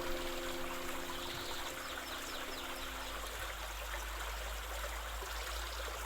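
Steady running water of a stream, with a held note of soft background music ending about halfway through.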